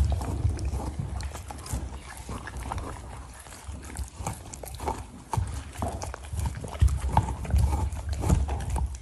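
Dogs chewing and gnawing on treats: irregular crunching clicks and knocks over a low rumble.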